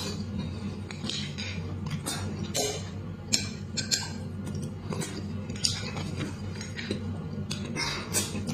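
Wet, close-up chewing and smacking of soft beef bone marrow, with small clicks of a metal spoon, several irregular smacks a second over a steady low hum.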